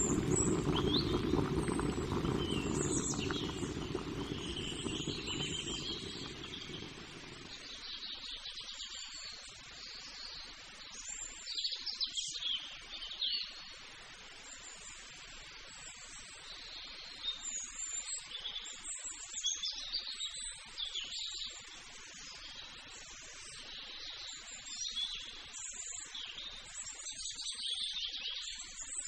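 Birds chirping outdoors, many short high calls scattered irregularly. A low rushing noise underneath stops about seven seconds in.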